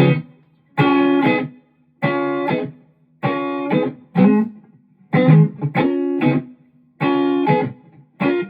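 Electric guitar played through a pedalboard with an Xotic Super Sweet boost pedal engaged, strumming a series of short chord stabs with brief pauses between them. The tone sits near the edge of breakup.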